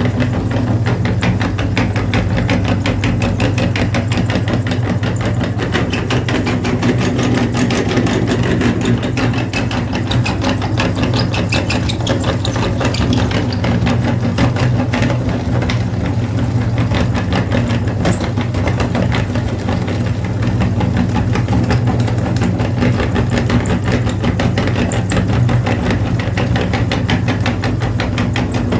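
An engine running steadily at an even speed with a fast, regular pulsing beat, unchanging throughout.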